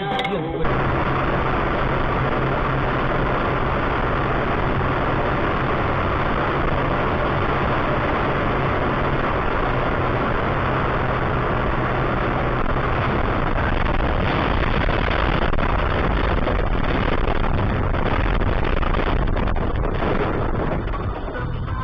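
A moving car: a steady low engine hum under constant road and tyre noise, starting abruptly at a cut about half a second in.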